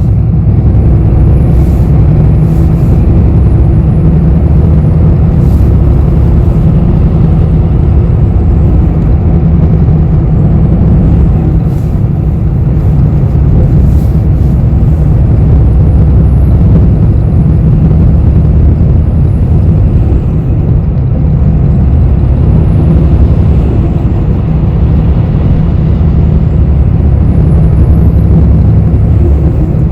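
Cabin noise inside a moving city bus: a steady, loud low rumble of engine and road, with a faint high whine that rises and falls several times and a few light clicks or rattles.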